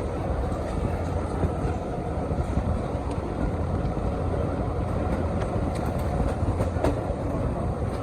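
Diesel-hauled train running along the track: a steady low rumble with a few light clicks.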